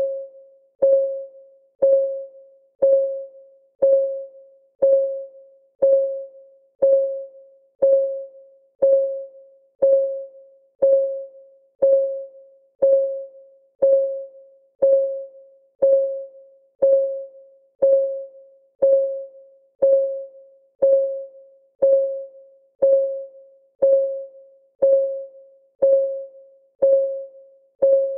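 Countdown timer's ticking sound, one tick a second. Each tick is a short click with a single mid-pitched tone that dies away quickly.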